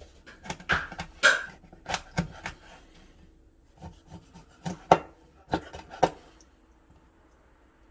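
A kitchen knife cutting and scraping on a cutting board while a sea squirt is cut up: a run of sharp knocks and rasping strokes in two bursts, about a second in and again around five seconds, stopping about six and a half seconds in.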